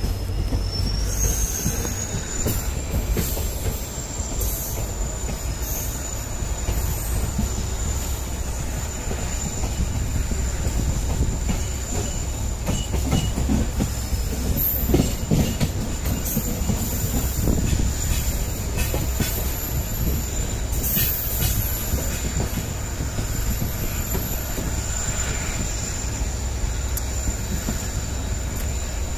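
Mandovi Express passenger train running along the track, heard from the coach door: a steady rumble of wheels on rail with scattered clicks, and a thin high whine that rises slightly about a second in and then holds.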